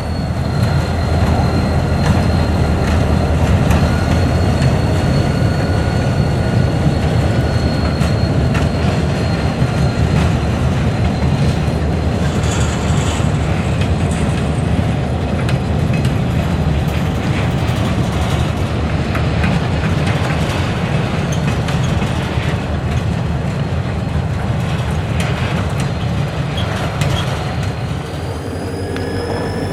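A freight train rolling past, led by a GP40M-3 diesel locomotive: a loud, steady rumble of the locomotive and of the freight cars' wheels on the rails. A thin high whine sounds over it and stops about nine seconds in.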